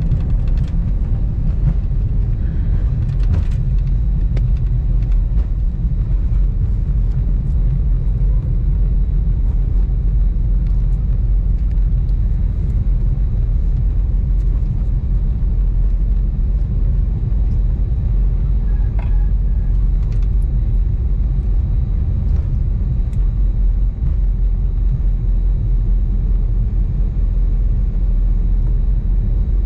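Steady low rumble inside the cabin of an Airbus A320neo rolling on the ground around landing, with a few faint clicks and rattles.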